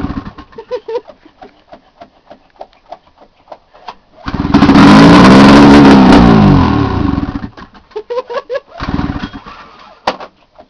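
Straight-piped Ski-Doo MXZ two-stroke snowmobile engine dying away, then sputtering and popping irregularly. It catches and revs up and back down for about three seconds, falls back to sputtering, and gives one more short burst near the end. It is running without the fuel turned on yet.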